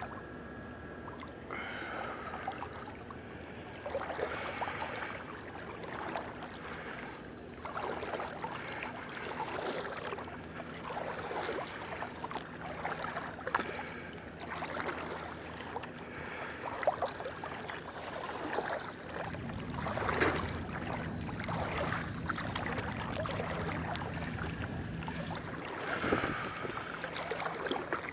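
Water splashing in repeated surges, about one every one to two seconds, as a swimmer strokes through a pool.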